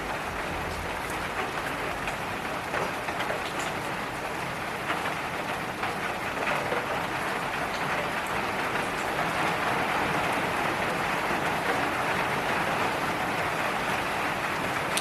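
Steady rain falling on a wet surface, with scattered individual drops ticking; it grows a little heavier about a third of the way in.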